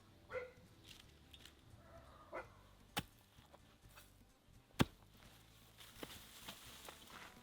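A few sharp knocks or chopping strokes, the loudest just before five seconds in, with faint rustling toward the end.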